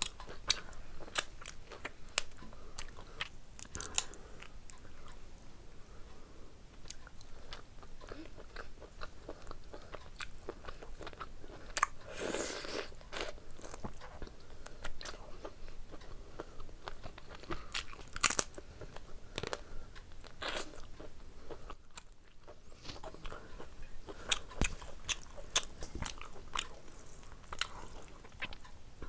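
Close-up eating sounds: chewing and crunching as prawn curry and rice are eaten by hand, many short sharp clicks, busiest about twelve seconds in.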